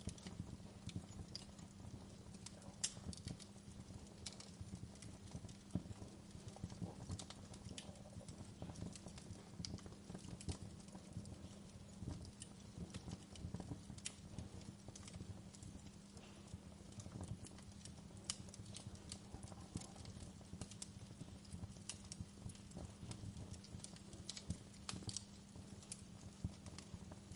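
Wood fire crackling in a fireplace: frequent irregular sharp pops and snaps over a low, steady rumble of burning.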